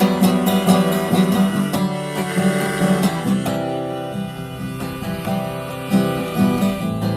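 Acoustic guitar strummed in an instrumental break of a country-gospel song, with no singing. The strumming is dense for the first three seconds or so, then lighter.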